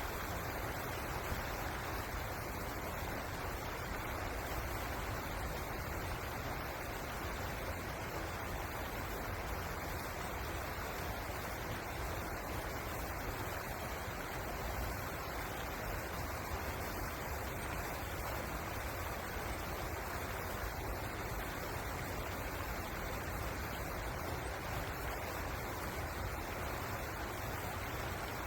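Pozer River water flowing: a steady, unbroken rush with a low rumble beneath it.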